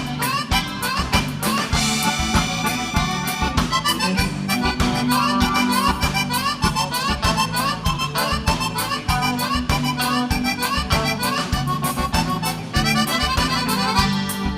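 Instrumental break of a live gaúcho vaneira: an accordion plays fast melodic runs over a bouncing bass line and steady drum beat.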